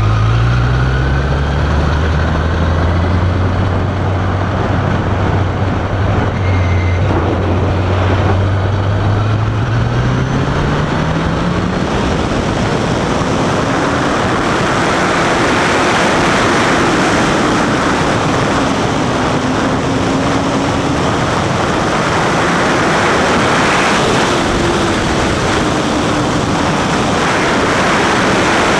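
Motorcycle engine running at low, steady revs, then revving up about ten seconds in as the bike accelerates. Over the second half, wind noise on the microphone rises over the higher engine note.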